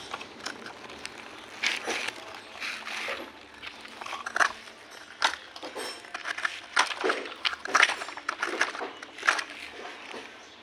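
A series of short, sharp crackling clicks at uneven intervals, like close-up handling noise.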